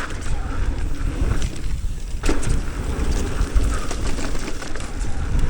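Wind buffeting the microphone as a heavy, uneven low rumble, with scattered clicks and rattles.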